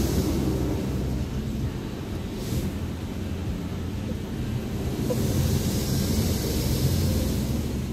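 Automatic car wash heard from inside the car's cabin: a steady low rumble of the wash machinery, with water spray hissing against the car. The hiss drops away early on, returns briefly, and comes back strongly about five seconds in.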